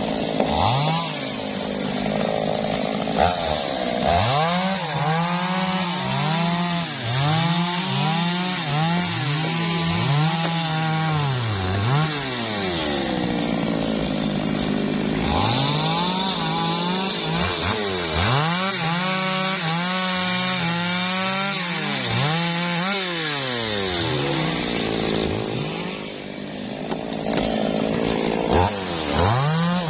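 Two-stroke MOTOYAMA 1000 chainsaw cutting teak wood, the engine pitch rising and falling over and over as the throttle is worked and the chain bites into the log, sagging to a lower, steadier note twice along the way.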